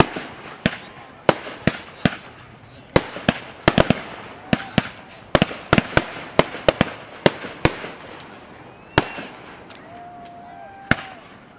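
Aerial firework shells bursting in a quick, irregular run of sharp bangs, thickest in the first seven seconds or so, then thinning to a few scattered reports.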